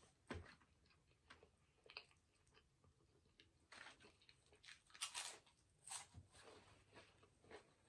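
Faint, close-miked chewing of a chili cheese hot dog: scattered crunches and soft wet mouth sounds, with the loudest crunches about five seconds in.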